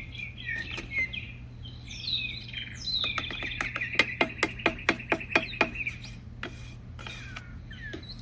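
Wild songbirds chirping and singing, with a quick run of sharp clicks for a couple of seconds in the middle over a steady low hum.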